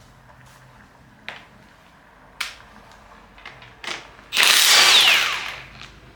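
A few light metal clicks, then an impact wrench runs in one loud burst of about a second, loosening a connecting rod cap bolt, its pitch falling as it winds down.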